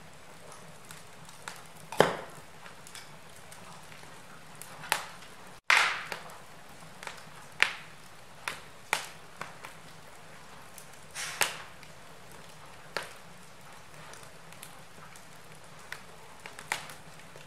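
Wood fire crackling in a fireplace: sharp, irregular pops and snaps over a soft steady hiss, with a split-second dropout about a third of the way in.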